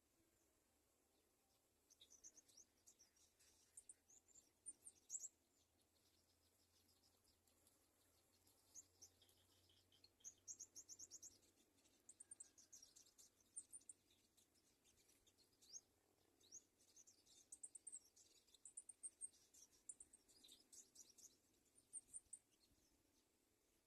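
Faint, high-pitched bird chirps in quick runs of short notes, coming and going in bursts, starting about two seconds in and stopping shortly before the end.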